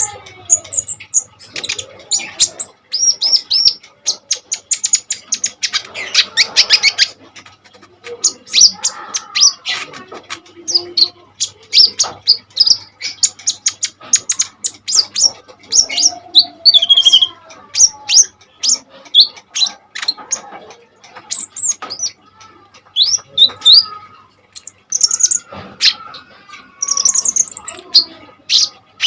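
Brown-throated sunbird (kolibri ninja) singing continuously: rapid runs of sharp, high-pitched chirps and short notes, with a fast trill about six seconds in.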